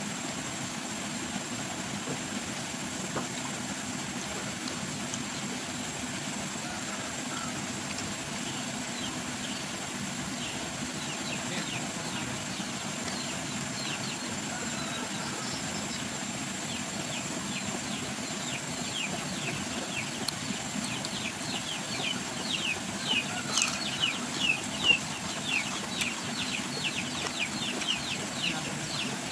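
Steady outdoor background hiss. From about ten seconds in, a bird chirps in rapid, short falling notes, several a second, that grow louder and denser near the end.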